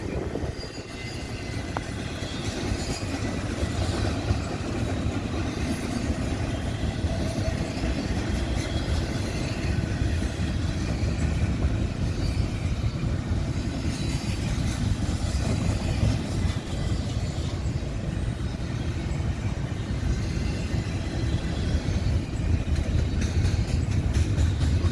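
Freight train cars rolling past: a steady rumble of wheels on rail with scattered clicks and clatter from the wheels and couplings.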